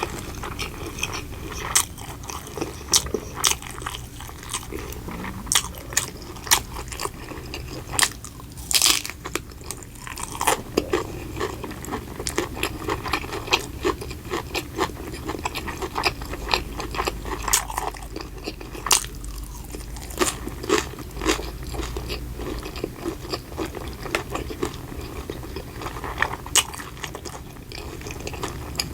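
Close-miked eating: a person biting into crunchy food and chewing, with many irregular sharp crunches.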